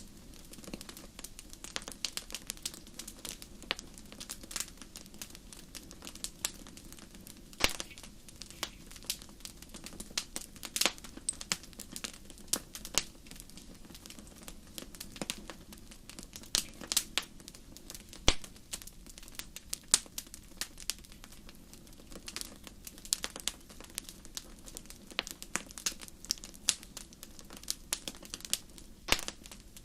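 Wood fire crackling, with many sharp irregular pops and snaps over a steady low rush.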